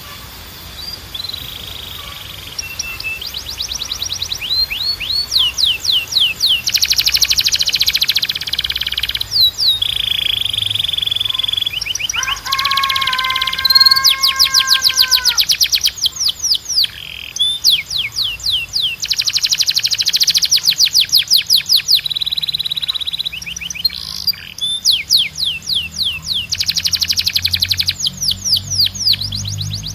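Timbrado canary singing a long song of rapid repeated notes: fast sweeping rolls alternating with buzzy trills held on one pitch, and a lower held note with overtones about halfway through.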